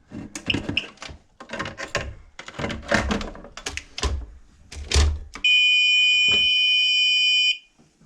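A run of sharp taps and clicks on a stairlift's circuit-board relay, tapped to knock the carbon build-up off its contacts as a temporary fix for a relay fault. About five seconds in, a steady, high-pitched electronic beep sounds for about two seconds, then cuts off.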